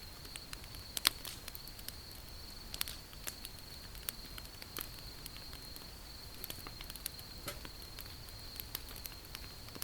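Wood fire crackling: irregular sharp pops and snaps, the loudest about a second in, over a steady high-pitched tone.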